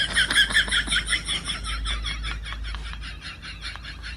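A fast, even run of short high chirps from an animal, about eight a second, loudest at the start and fading gradually, over a low steady hum.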